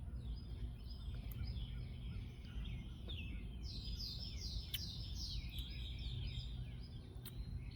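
Songbirds chirping, many short downward-sliding chirps that come thickest about halfway through, over a steady low outdoor rumble.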